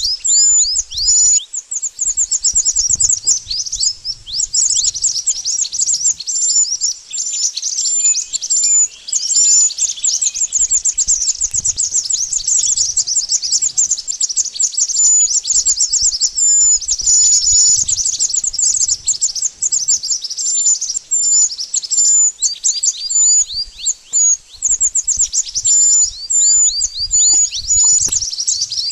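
Mantenan bird calling: a dense, continuous run of rapid, high-pitched chirps and short downward-sweeping ticks.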